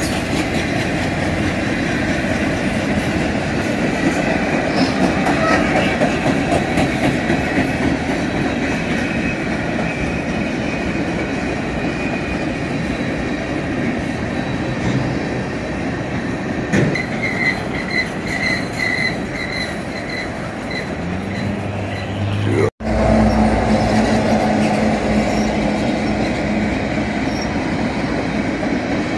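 Freight train of boxcars rolling past at close range: steady rumble and clatter of steel wheels on rail. A repeating high squeal pulses a few times a second for several seconds past the middle. Near the end the sound cuts out for an instant, then carries on with a steady low hum under the rolling.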